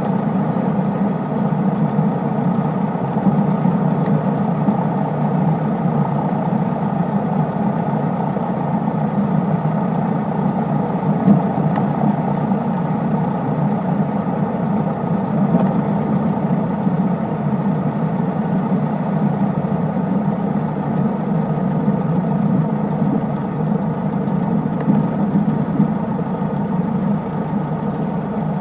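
Cessna 152's four-cylinder Lycoming piston engine and propeller running at a steady drone.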